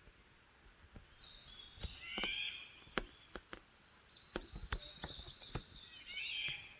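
Wild birds chirping in the forest, with short bursts of high calls and a thin, steady high whistle in the middle. Scattered sharp clicks and taps run through it.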